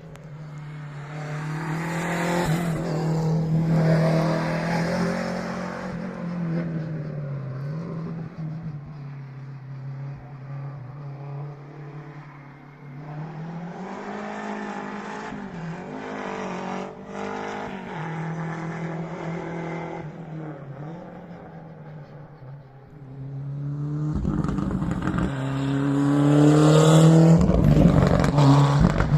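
Historic rally car engines at full throttle on a closed stage, the sound swelling and fading as cars approach and move away. The loudest and closest car comes in near the end, its revs climbing as it accelerates.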